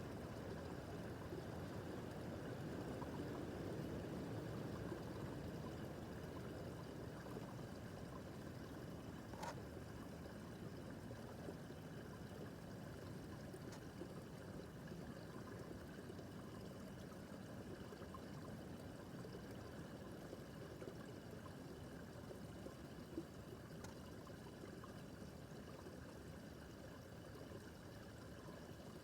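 Small brook babbling and trickling steadily over rocks, with a faint tick or two.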